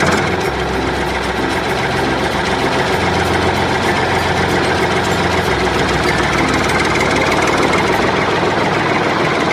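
An engine running steadily at idle, a dense even mechanical noise with a low hum.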